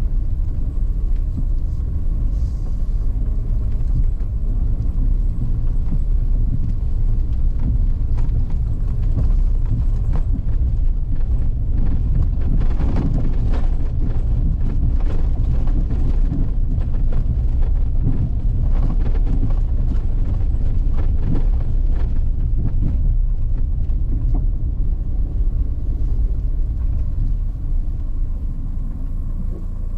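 Vehicle driving on a forest road: a steady low rumble of engine and tyres, with scattered knocks and rattles from the rough surface, thickest in the middle.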